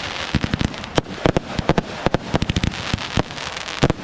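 Fireworks going off: a rapid, irregular string of sharp bangs and pops over a crackling hiss.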